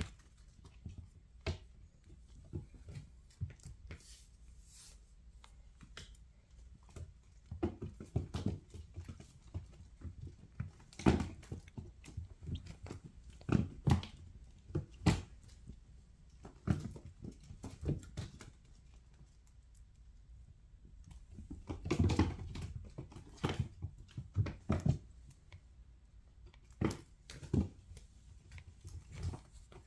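Bengal kittens playing: irregular thumps, scratches and clicks from their scampering and pouncing, coming in flurries with short lulls between.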